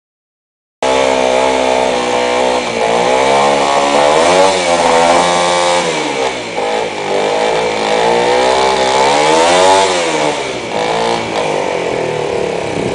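Honda CB250 two-cylinder engine revved up and down several times, starting abruptly about a second in. It runs on only one cylinder at tick-over and catches on the second only when revved hard.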